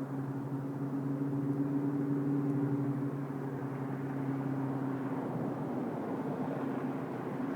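2003 Ford Mustang GT's 4.6-litre V8, fitted with a stage 1 nitrous cam, running through short headers, an off-road X-pipe and Spintech Super Pro mufflers: a steady exhaust note at an even engine speed, its lower part easing slightly about five seconds in.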